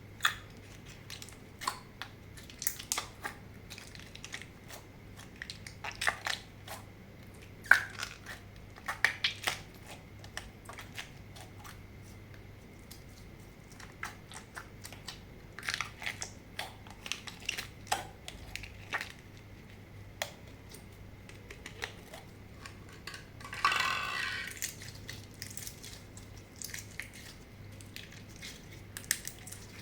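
Slime being squished and kneaded by hand, making sharp, irregular clicks and pops. There is a longer, noisier squish about four-fifths of the way through.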